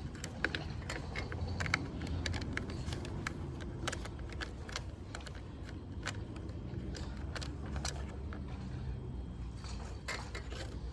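Irregular metallic clicks and rattles of a 10 mm socket wrench working the mounting bolts on a lawn mower's carburetor, over a low steady hum.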